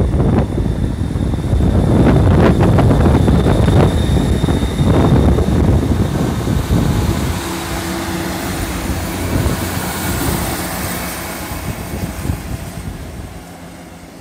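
GWR Class 158 diesel multiple unit pulling out past the platform: diesel engine running and wheels knocking over the rails close by, then fading steadily as the train draws away.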